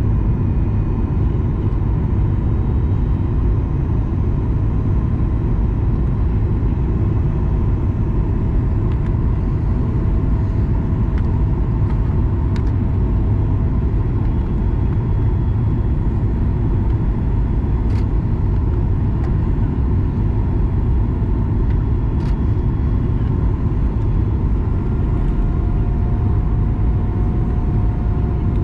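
Steady cabin rumble of a Boeing 737 MAX 9 in flight: airflow and its CFM LEAP-1B engines, heavy in the low end. Two faint clicks come through about 18 and 22 seconds in.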